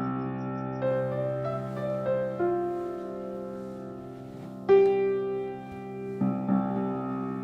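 Soft piano music: held chords under a slow melody, with a louder new chord struck about four and a half seconds in.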